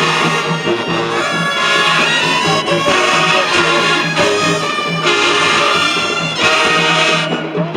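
Marching band playing brass-heavy music, heard from across the field, with a repeating low bass line under the horns. The sound thins out near the end.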